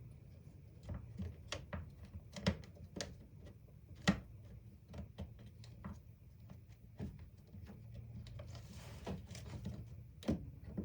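Irregular clicks and knocks of a reciprocating saw's housing and internal parts being handled and pressed back together during reassembly, with a short scraping rustle near the end.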